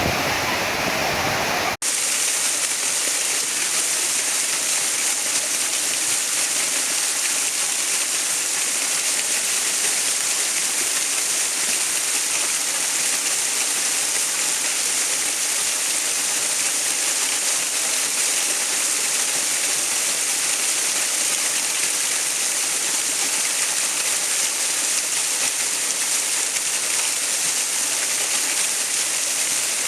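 Steady rushing water, an even bright hiss with little low rumble. About two seconds in it drops out for an instant and comes back slightly thinner and brighter, a splice between two water recordings.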